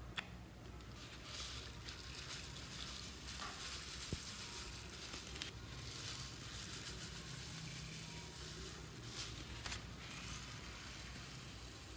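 Slime being kneaded and mixed by hand: a steady soft crackling and squishing with scattered small clicks, and one sharper click right at the start.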